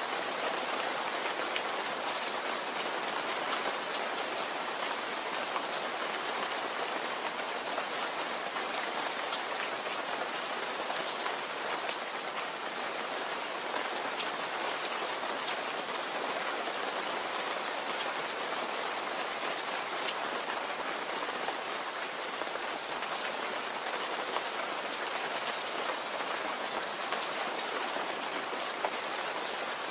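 Steady rain falling, an even hiss of drops with many fine ticks of individual drops striking a surface.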